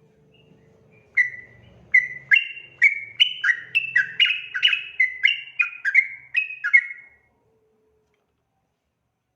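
Yellow-vented bulbul singing a long run of loud, bubbling whistled notes, about two a second, that stops abruptly about seven seconds in.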